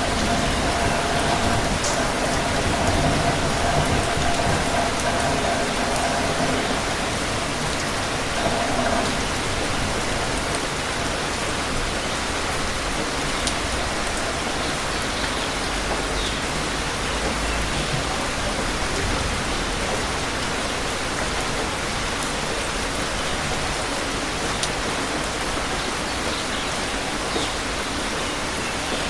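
Steady rain falling, with a faint steady hum underneath that fades out about nine seconds in.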